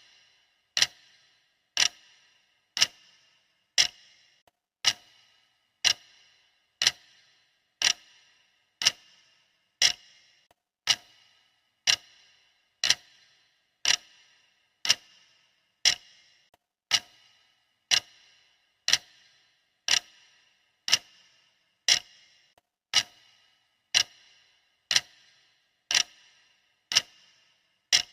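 Clock ticking steadily, one sharp tick each second with a short ring after each.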